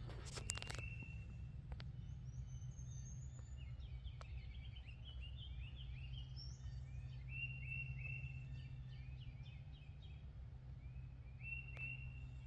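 Songbirds singing in the woods: many short, high chirps and trills, faint, over a steady low rumble.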